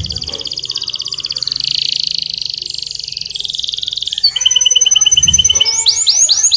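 Domestic canary singing a long run of rapid trills. A little past halfway the song switches to sharper, higher repeated notes, then to a series of quick downward-swooping notes near the end.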